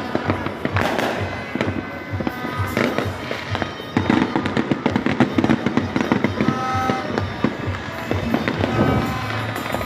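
Fireworks going off in quick succession, many sharp bangs and crackles that come thicker from about four seconds in, with music playing underneath.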